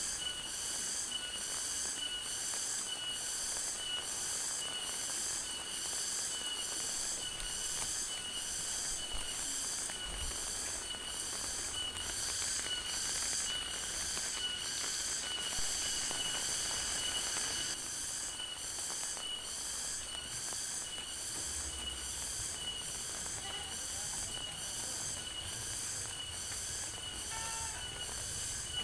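A chorus of insects calling, a high-pitched sound pulsing a little more than once a second, with a steady fast chirping under it, over the even hiss of rain.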